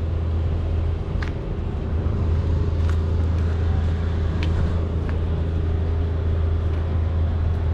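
An engine running steadily at idle, a low even drone with a few faint ticks over it.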